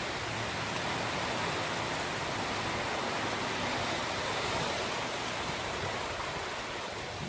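Heavy rain coming down steadily in a dense, even hiss.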